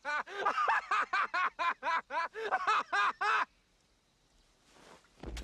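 A man laughing in a rapid, even cackle of about six 'ha's a second, stopping abruptly about three and a half seconds in. A short low thump comes near the end.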